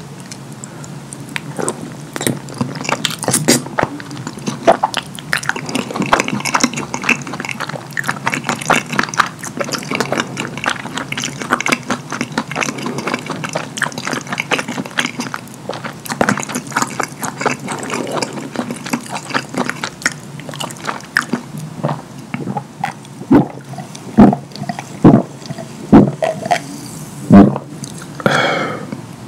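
Close-miked eating sounds: wet chewing and lip-smacking on a mouthful of cheese-sauced lasagna, a dense run of quick sticky clicks. Then come about five loud gulps, roughly a second apart, drinking from a glass, and a short breathy exhale at the end.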